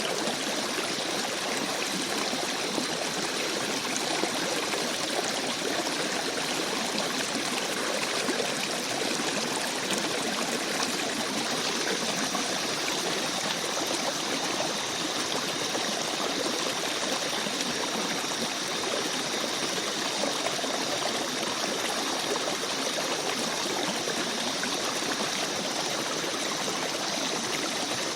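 Shallow forest stream babbling and trickling steadily over rocks.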